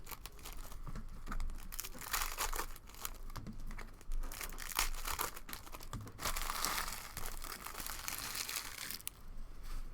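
Plastic trading card pack wrappers crinkling and tearing as cello packs of basketball cards are opened and handled, an irregular crackle that eases off near the end.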